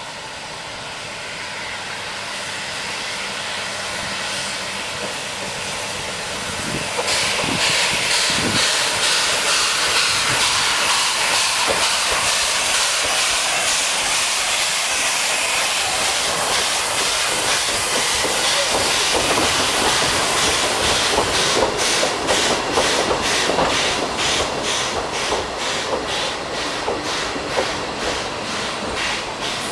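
A C11 steam tank locomotive arriving at a station platform, its steam hissing and growing louder, then jumping to a loud hiss about seven seconds in. Near the end a regular clacking of about two beats a second comes in as the train rolls through.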